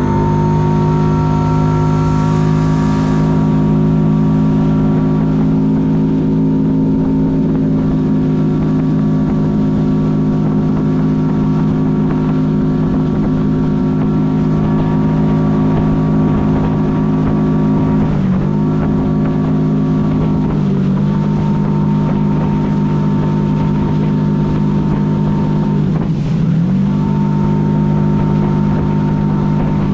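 Jet ski (personal watercraft) engine running at a steady high throttle under way. It eases off and picks back up briefly a few times in the second half.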